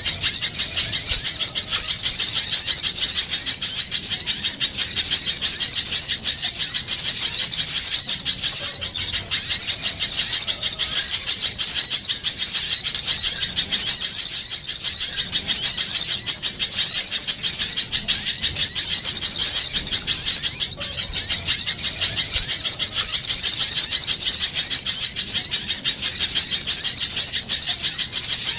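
A dense, noisy chorus of many small songbirds chirping rapidly and over one another without a break: a bird-trapping lure recording of agitated small birds, used to draw other small birds in.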